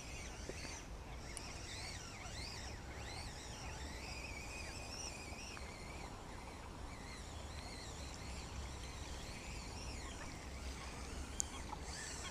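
Small birds singing over a steady low rumble, with many short chirps and warbled phrases rising and falling in pitch.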